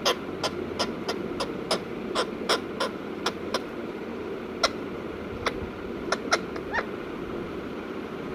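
Ringneck parakeet giving a rapid series of short, sharp calls, about three a second, then a few more spaced out, over a steady background hiss.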